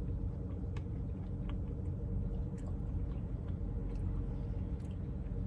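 A few faint spoon clicks and scrapes in a Blizzard cup while digging for the marshmallow, over a steady low hum.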